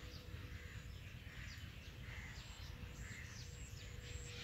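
Faint, repeated chirping of small birds, short high calls coming every second or so, over a steady thin hum and a low rumble.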